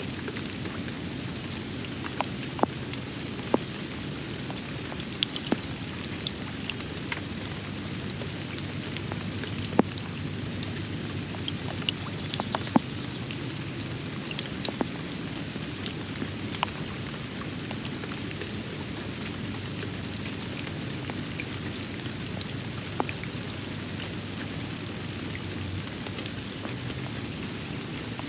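Steady rain falling on a backyard pond. Sharp ticks of drops landing close by are scattered irregularly through it, the loudest about halfway through.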